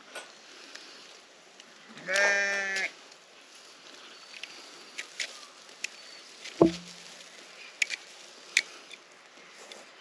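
One bleat, held steady for about a second, starting two seconds in. It is followed by a sharp thump, and light clicks come and go through the rest.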